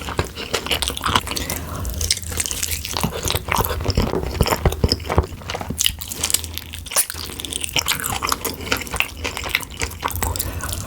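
Close-miked eating: a person chewing with many quick, crisp crunches and wet mouth sounds.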